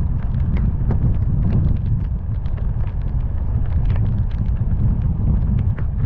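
Heavy rain hitting a moving car, with many irregular drop impacts over a steady low rumble from the car and road.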